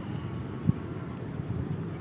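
Wind rumbling on the microphone as a low, steady noise, with a single sharp thump about two-thirds of a second in.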